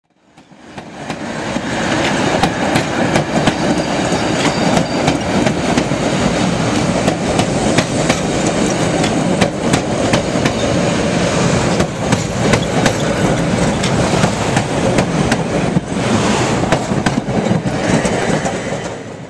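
CTA train passing at close range: a loud, steady rush of steel wheels on rail with many quick, uneven clicks as the wheels cross the rail joints. It rises in over the first second or two and drops away near the end.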